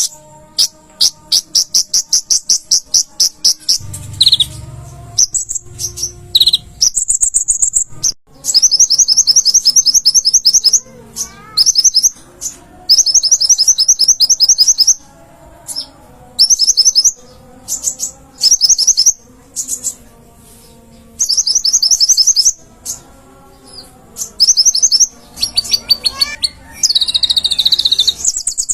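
A konin (kolibri ninja) sunbird singing loud, high, rapid trills of sharp repeated notes, in bursts of a second or two with short pauses between them.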